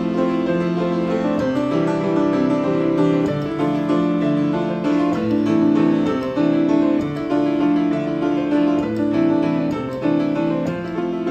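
Acoustic piano being played: a continuous flow of chords and melody.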